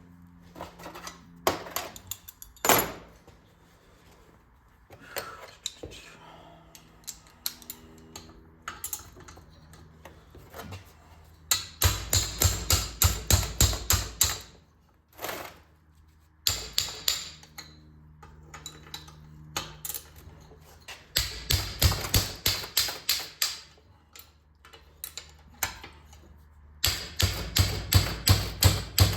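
Small impact driver hammering in three bursts of rapid rattling impacts, each two to three seconds long, with scattered tool clicks between them, as it loosens the cylinder head bolts of a Clinton 410 small engine.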